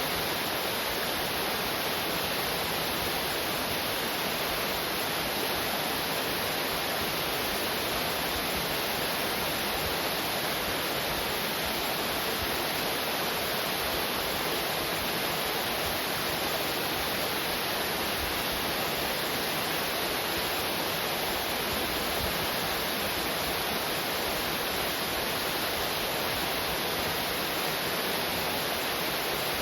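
Waterfall water running down a rock face: a steady, even rush of falling water.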